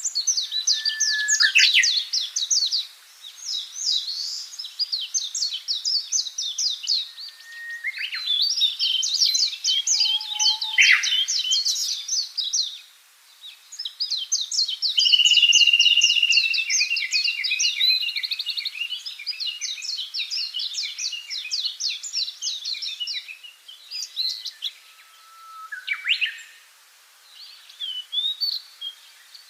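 Songbirds singing: fast runs of high chirps and trills in phrases a few seconds long, with short pauses between.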